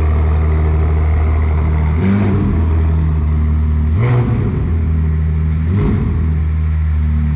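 Ferrari 296 GTB's twin-turbo V6 idling, blipped three times with short revs that rise and drop back to idle, about two seconds apart.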